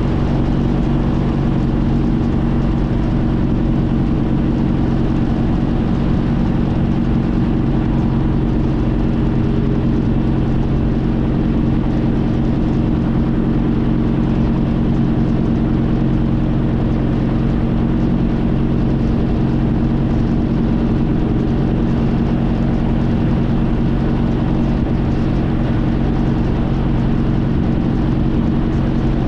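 Honda CTX1300's V4 engine running at a steady cruise, its hum holding one pitch throughout over a steady rush of noise.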